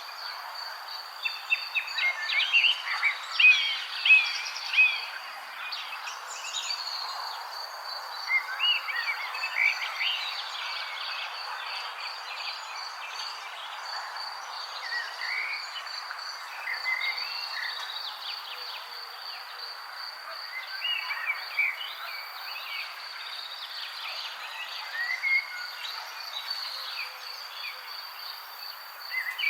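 Birds chirping in many short calls and quick phrases, the loudest cluster a few seconds in, over a steady, high, rapidly pulsing trill and a faint outdoor hiss.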